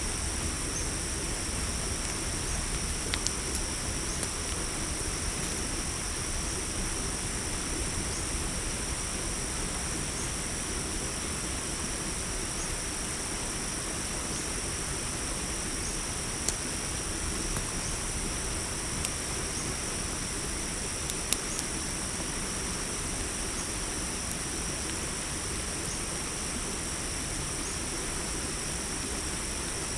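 Steady chorus of crickets, a continuous high trilling, over an even hiss and rumble of a campfire that gives a few sharp crackling pops, the loudest about halfway through and again some five seconds later.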